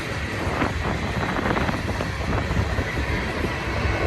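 BNSF freight train cars rolling past, a steady rumble of steel wheels on rail with a few sharp wheel clicks.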